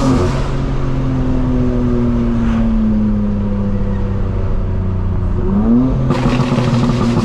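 Straight-piped BMW M4 Competition's twin-turbo inline-six running, its drone slowly falling in pitch. About five and a half seconds in it climbs in revs and pulls hard, with the exhaust turning much louder.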